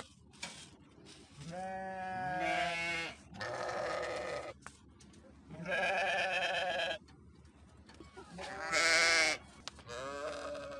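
Sheep bleating repeatedly, about five separate bleats with a quavering pitch, each lasting around a second.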